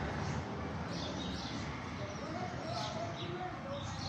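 Small birds chirping, short high chirps repeating every second or so, over a steady background hiss with faint voices.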